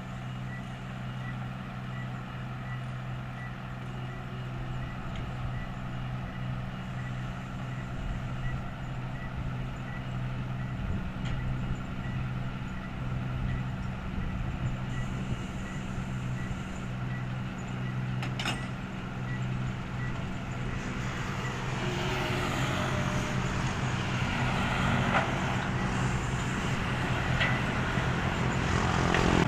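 Heavy diesel construction machine running steadily, its reversing alarm sounding a regular series of short beeps. Over the last third a louder, rougher mechanical noise builds up.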